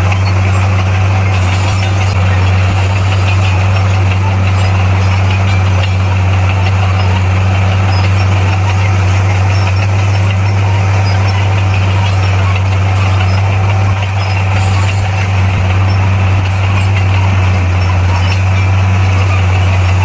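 Bulldozer's diesel engine running steadily at constant speed, a loud, even low drone with no change in pitch.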